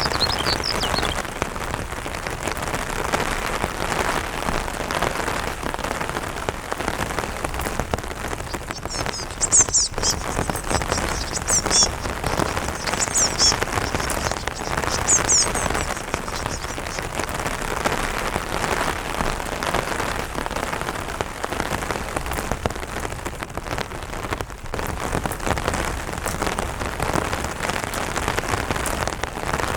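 Light rain pattering steadily on an umbrella. A bird gives a string of short, high chirps midway through.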